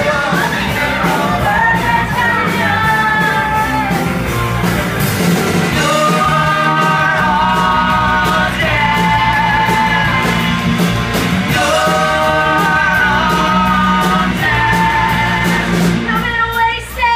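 A woman singing a rock song over band backing with a steady drum beat, her voice holding long notes and at times pushed to a shout. The music drops away near the end.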